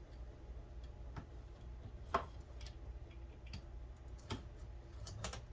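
Scattered light clicks and taps of small parts and tools being handled, about half a dozen, the sharpest about two seconds in and a few close together near the end, over a steady low hum.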